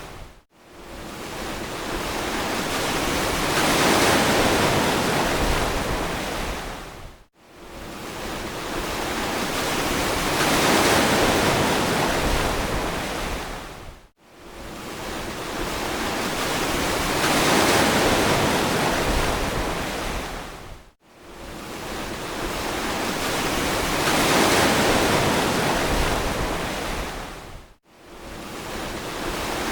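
Ocean surf washing in even swells, each building and fading over about seven seconds. Every swell ends in a brief, abrupt dropout to near silence, so the same wave seems to repeat on a loop.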